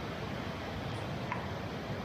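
Rainy city street ambience: a steady hiss of rain with a low rumble of traffic, and one short click about a second and a half in.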